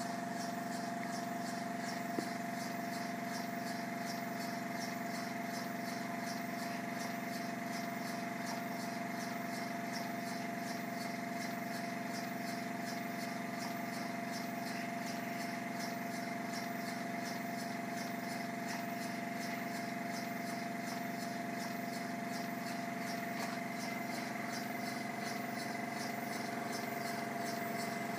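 Stuart model beam engine running steadily with an even, rapid beat, over a steady tone.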